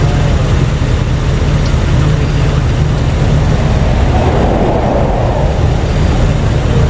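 Steady, loud rush of interstate traffic passing close by, with a deep low rumble.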